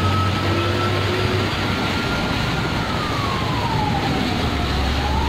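A siren wailing slowly: its tone holds high, falls over a couple of seconds, then starts rising again near the end. Steady road and engine noise runs under it.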